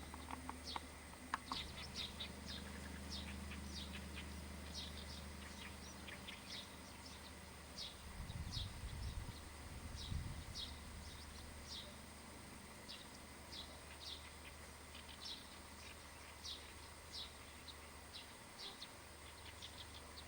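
Faint bird calls: short high chirps repeating irregularly, about one or two a second, with a low rumble about eight to ten seconds in.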